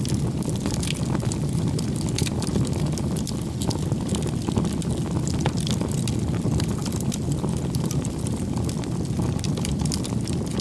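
Campfire burning: wood crackling and popping in many small irregular snaps over a steady low rumble of the flames.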